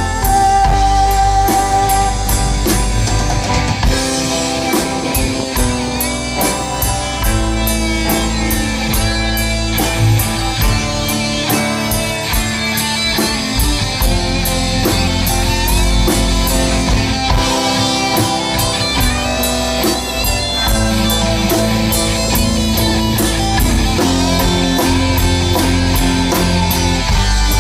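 Live rock band playing an instrumental passage, with guitar lines over a steady drum kit and bass.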